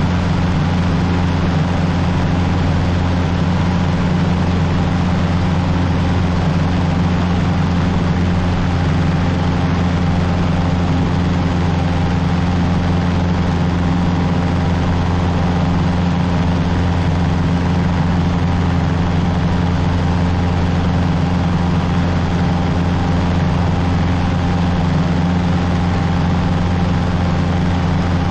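Cessna 150's four-cylinder Continental O-200 engine and propeller running steadily, a constant low drone heard from inside the cockpit.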